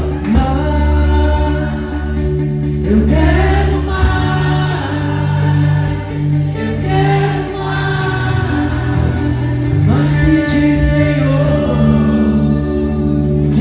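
Live gospel music: a church band with bass and drums, and voices singing together.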